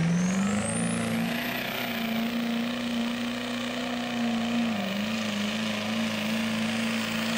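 Diesel pickup truck engine held at high revs under load during a truck pull run, with a high whistle climbing in pitch at the start. The revs dip briefly about two-thirds through, then come back up.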